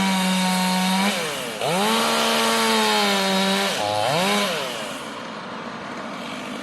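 Chainsaw running at full throttle, cutting through a tree trunk on the final back cut of a felling. Its revs drop and climb back about a second in and again near four seconds, then it eases off to a quieter low run for the last couple of seconds.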